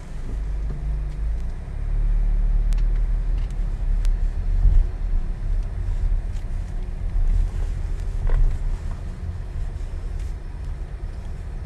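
Car wash tunnel equipment heard from inside the car as a low, uneven rumble that grows louder about two seconds in, with a few faint clicks.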